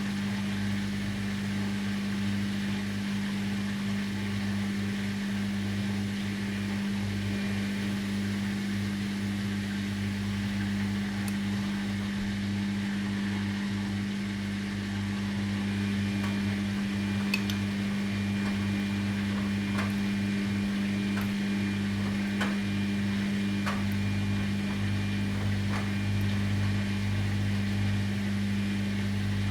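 Washing machine running with a steady low motor hum, with a few light clicks in the second half.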